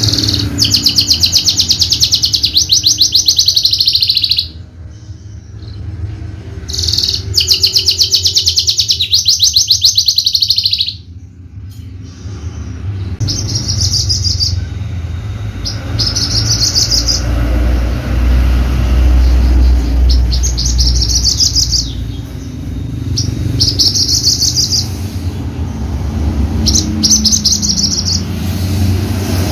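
Javan bush lark singing in fast, rattling trills: two long phrases of several seconds each, then a string of shorter bursts. A steady low rumble runs underneath and grows louder in the middle.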